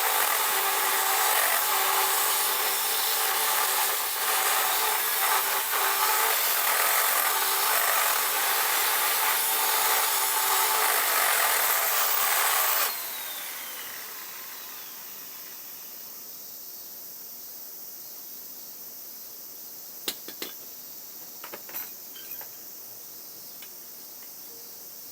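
A motor-driven power tool running steadily under a loud noise, switched off about 13 seconds in, with its pitch falling as it spins down. A few light clicks follow near the end.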